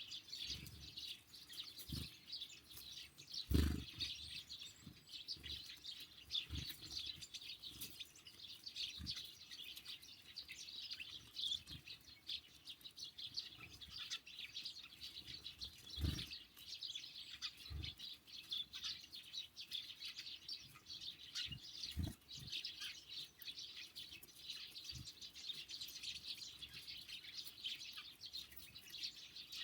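Sparrows and great tits chirping and twittering continuously, with several low thumps scattered through, the loudest about three and a half seconds in.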